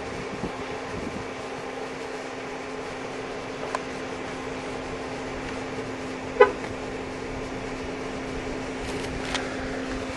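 Steady whirring hum of an air-conditioning fan blowing, with a constant low drone under it, a few faint clicks and one sharper knock about six and a half seconds in.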